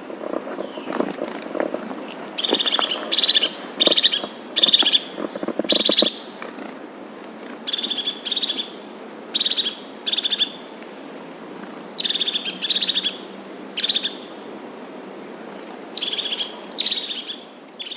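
A bird calling: short, high calls repeated in loose series of two to four, about half a second to a second apart, with gaps of a second or two between series.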